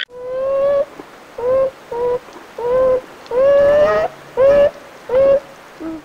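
An animal giving a series of short, pitched, humming calls, about nine in six seconds, each slightly rising in pitch.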